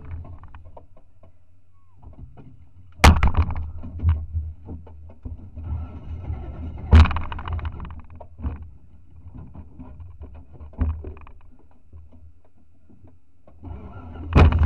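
Off-road car's engine idling heard from inside the roll-caged cabin, with sharp knocks about 3 and 7 seconds in and smaller clicks and rattles of the stripped bodywork between; near the end a loud knock comes and the engine picks up.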